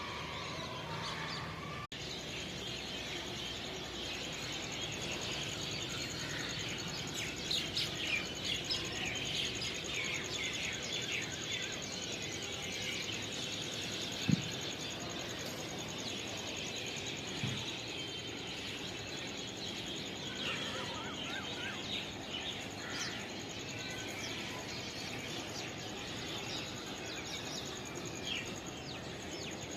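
Small birds chirping and twittering in quick short calls over a steady outdoor hiss, busiest in the first half, with one sharp click about halfway through.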